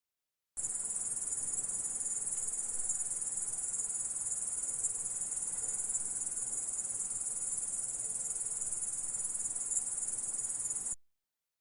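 Grasshopper stridulating: a steady, high-pitched insect buzz that starts suddenly about half a second in and cuts off near the end.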